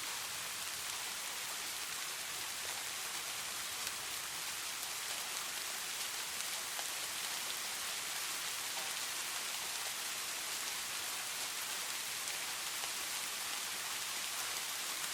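Steady rain falling, an even hiss with scattered individual drops, no thunder.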